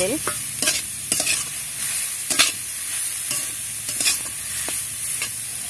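Grated carrot frying in ghee in a metal kadai: a steady sizzle, with a metal spatula scraping and knocking against the pan at irregular moments, roughly twice a second, as it is stirred.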